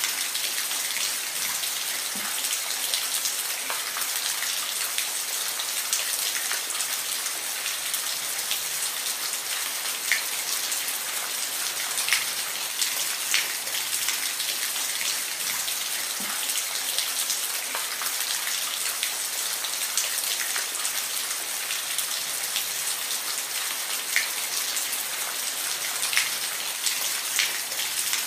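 Steady rain falling, an even hiss with individual drops ticking sharply here and there on a nearby surface.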